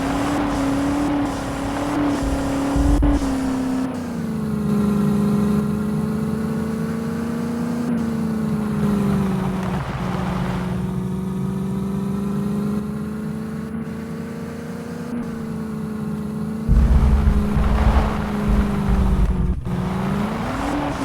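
Diesel tractor engines running hard under load in a tug-of-war. The engine pitch sags about four seconds in as they lug, holds low and steady, then climbs back near the end as the load eases. A few heavy low thumps come in the last few seconds.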